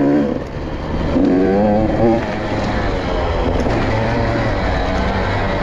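Motorcycle engine running under way, its revs wavering up and down in the first couple of seconds and then holding steadier.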